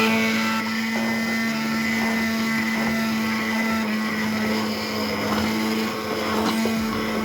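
An electric kitchen appliance motor, switched on just before and running at a steady pitch with a loud whir.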